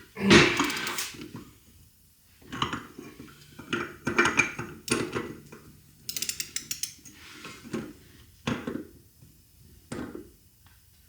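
Metal tools and a Toyota front hub assembly clanking and rattling as they are handled while the hub's outer locknut is tightened. Separate clanks come every second or two, the loudest just after the start, with a quick run of fine clicks a little past halfway.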